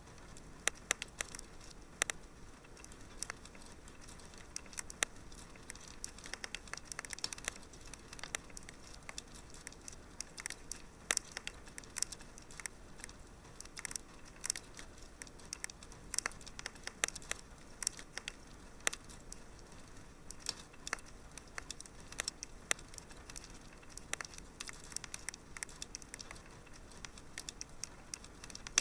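Wood fire crackling in a fireplace: a steady low hiss with frequent irregular sharp pops and snaps.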